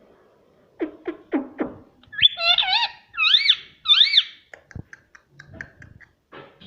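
Pet parrot calling: four quick falling squawks, then a run of loud rising-and-falling whistled calls, then a few short soft chirps and clicks.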